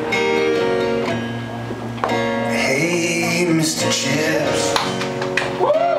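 Live rock band playing, with strummed guitar chords and some wordless singing. Whoops from the crowd begin near the end.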